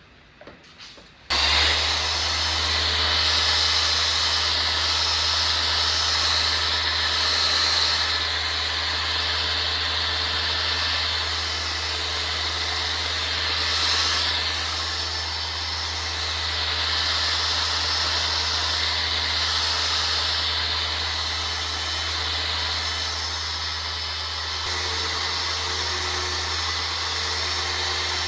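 Power sander running steadily on car bodywork, switched on suddenly about a second in. It gives a low hum under a hiss that swells and fades slowly.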